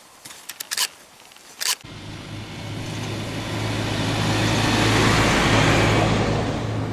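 A motor vehicle going by close, its engine hum and tyre noise building over several seconds to a peak near the end, after a few sharp clicks in the first couple of seconds.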